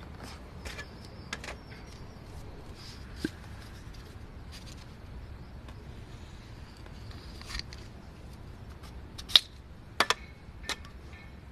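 Irregular sharp clicks and light taps over a faint steady background, with a few louder clicks near the end.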